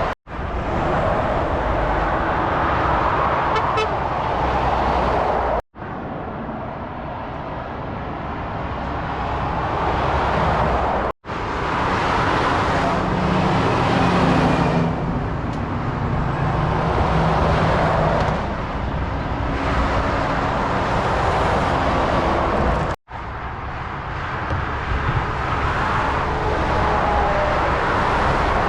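Motorway traffic, lorries and cars passing at speed with steady tyre and road noise, in several short stretches that cut off abruptly and restart.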